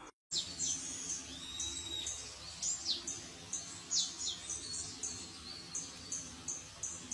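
Tali pocong birds calling: a rapid series of short, high chirps, some sweeping quickly downward, with one longer held whistle about two seconds in.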